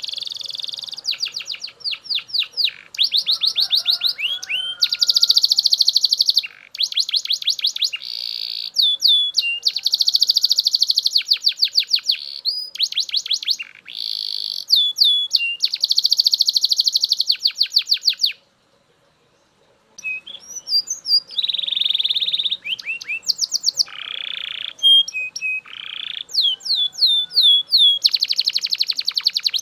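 Male Belgian canary singing in loud phrases of rapid repeated notes (trills), each phrase changing speed and pitch every second or two. The song breaks off briefly about two-thirds of the way through, then starts again.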